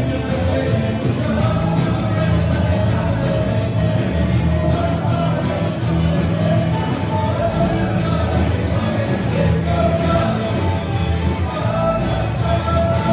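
Rock band playing a song with a lead vocal, over a steady drum beat and guitar.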